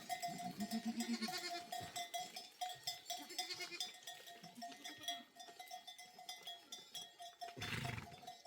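Livestock bells clinking steadily as a flock moves, with bleats now and then and a louder call near the end.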